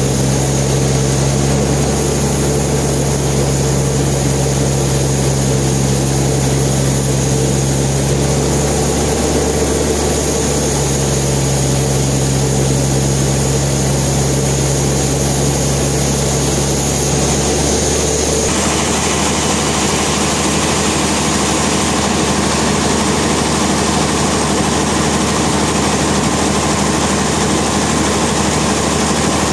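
Sawmill machinery running with a steady, loud mechanical hum; the sound changes character abruptly about two-thirds of the way through.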